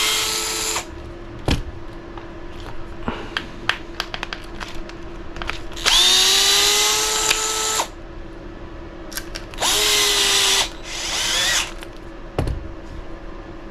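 Small cordless power driver spinning up in short bursts, running screws into an RC buggy chassis: one run ending just after the start, a longer two-second run about six seconds in, and two short runs near ten and eleven seconds, with light clicks of parts being handled in between.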